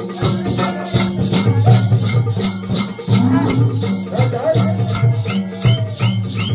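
Traditional folk music with a fast, even percussion beat, a steady low drone and a wavering melody line over it.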